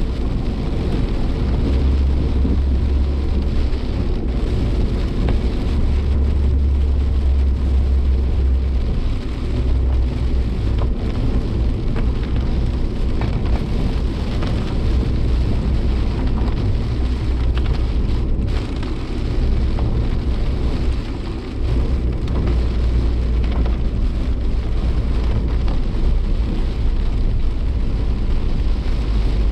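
Suzuki Jimny Sierra driving through heavy typhoon rain, heard from on board: a steady low drone of engine and road under the hiss of tyres on a wet road and rain hitting the vehicle, with scattered sharp ticks of drops.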